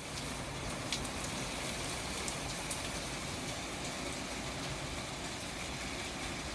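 Steady rain, an even hiss, with a few sharp drop ticks near the start.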